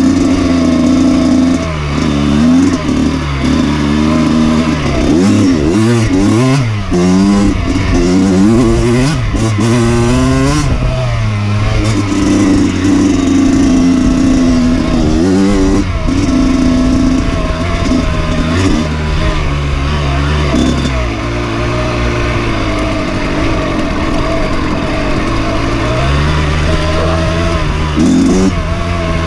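Dirt bike engine being ridden, its pitch rising and falling over and over as the throttle is opened and eased off, with a choppier, rapidly wavering stretch in the first third.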